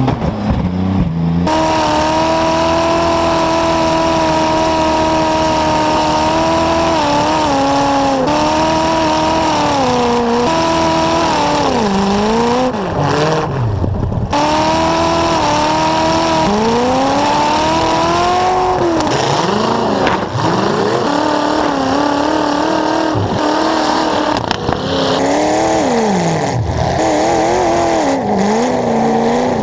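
Demolition derby car engine running hard through short open exhaust stacks, its pitch holding steady, then dropping and climbing again several times as the driver backs off and accelerates. A few short knocks stand out against it.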